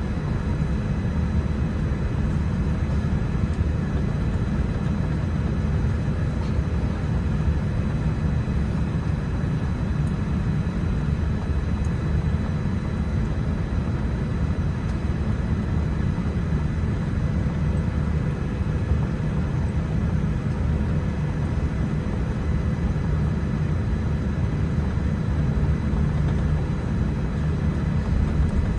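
Steady low rumble of airliner cabin noise inside a Boeing 787-10, with a few faint steady hum tones above it.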